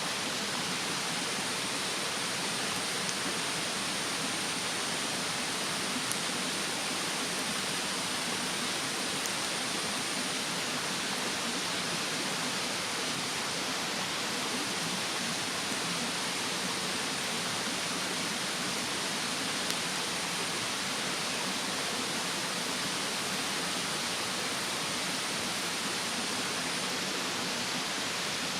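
Steady rushing of a mountain stream, with a couple of faint crackles from a wood fire. A thin, high, steady whine runs underneath and stops near the end.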